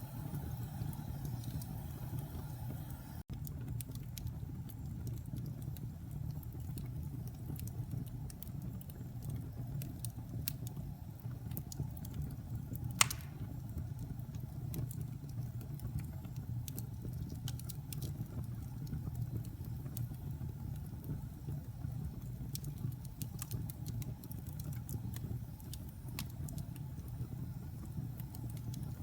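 Wood fire burning in a fireplace: a steady low rumble of flames with scattered small crackles and one sharp pop about halfway through.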